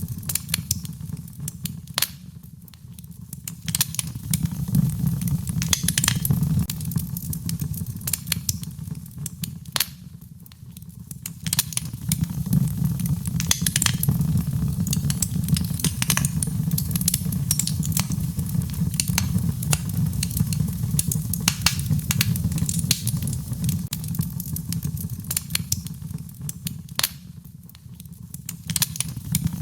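Wood fire crackling in a fireplace, with frequent sharp pops and snaps over a steady low rumble of the flames.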